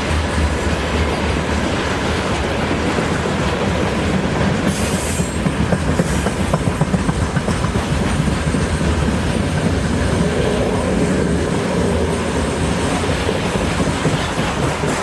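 Freight train rolling past close by: a steady loud rumble of wheels on rail, with a run of sharp clickety-clack from wheels crossing rail joints about five seconds in.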